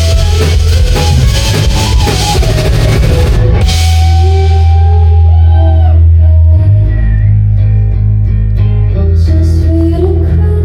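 Live rock band playing loud, with drum kit and electric guitar. A little under four seconds in the drums and cymbals drop out, leaving long held low notes under a bending guitar line.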